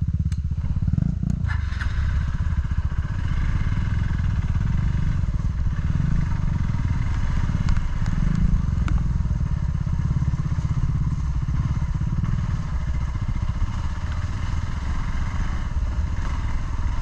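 A single-cylinder off-road motorcycle engine running steadily while riding a trail, with a few sharp clicks and knocks over it, near the start and again about halfway through.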